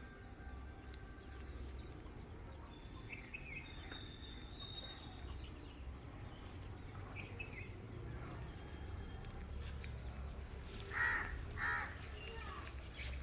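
Two loud crow caws about two-thirds of a second apart near the end, with faint scattered bird chirps over a steady low rumble.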